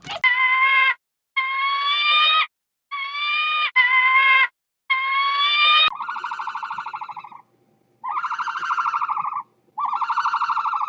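A series of drawn-out animal calls: four clear, slightly rising calls, then three buzzier calls.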